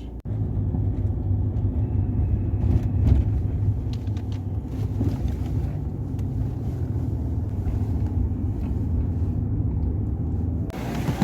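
Steady low rumble of a road vehicle in motion, with a few faint knocks.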